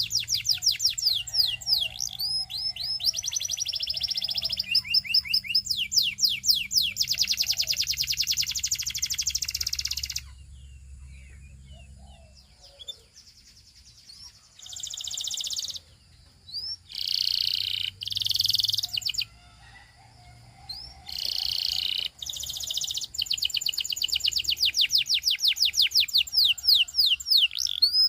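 Canary singing: long trills of rapidly repeated high notes, a pause about ten seconds in, then several short bursts of song a second or two apart, and a long trill again for the last few seconds.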